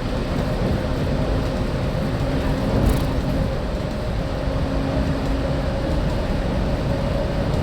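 Walt Disney World monorail running at speed, heard inside the passenger car: a steady rumble of the train on the beamway under a steady electric motor hum. There is a single short knock about three seconds in.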